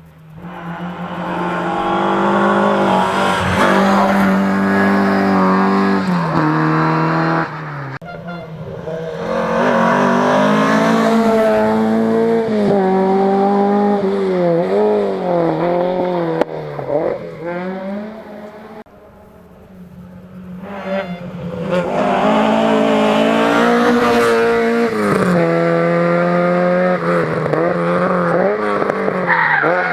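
Rally car engines revving hard at speed, climbing and dropping in pitch through gear changes and lifts off the throttle, with a lull about two-thirds of the way through before another car comes up to full revs.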